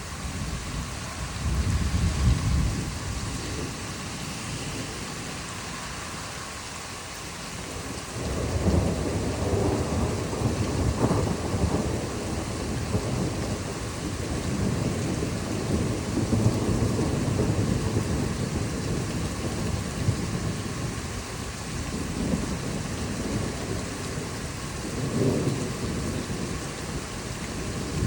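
Steady rain falling with rolling thunder: a short rumble about two seconds in, then a long rolling rumble that builds about eight seconds in and runs on for over ten seconds, and another swell near the end.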